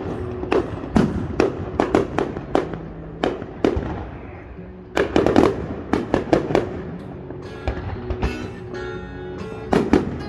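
Fireworks going off in a rapid string of sharp bangs and cracks, with a dense burst of reports about five seconds in. Music plays underneath.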